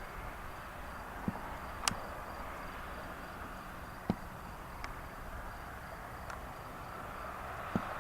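Faint steady outdoor background noise with a thin, evenly pulsing high tone and a few short sharp clicks.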